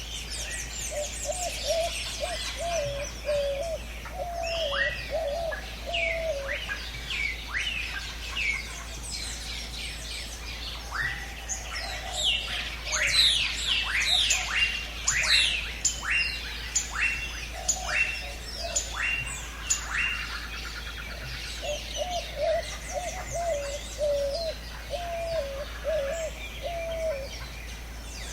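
Several birds calling and singing in a jungle chorus: a low warbling call comes in two bouts, near the start and again near the end, and in the middle a bird gives a quick run of repeated falling whistled notes among scattered higher chirps.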